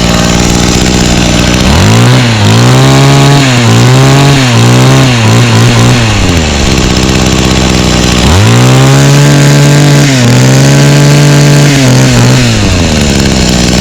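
Mantis mini tiller's 21.2cc two-stroke engine idling, then revved up twice for about four seconds each, dropping back to idle between and after. The engine speed wavers during the first rev.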